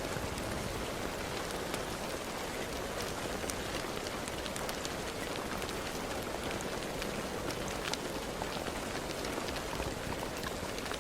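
Steady rain falling, a continuous hiss with many individual drops ticking on a hard surface.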